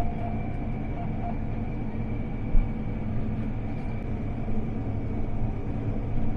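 John Deere S660 combine running steadily while cutting wheat, heard from inside the cab: a low rumble with a constant high whine, and one short knock about two and a half seconds in.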